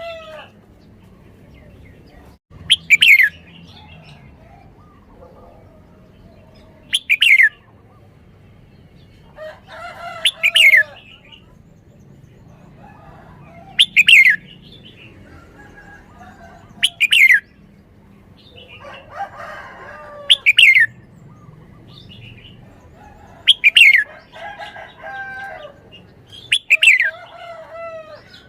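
Red-whiskered bulbul singing: a short, loud, bright phrase that falls in pitch, repeated about every three to four seconds, with softer warbling between some phrases.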